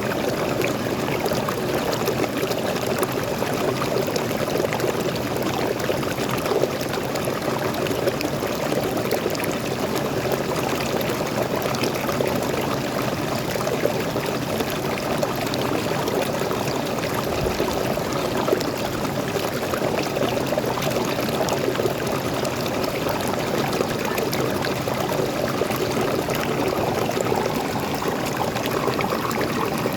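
Small waterfall splashing and pouring into a flowing stream, a steady unbroken rush of water.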